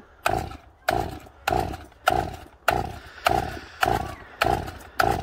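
Chainsaw being pull-started: the starter cord yanked about nine times in quick, even succession, roughly one pull every 0.6 seconds, without the engine catching.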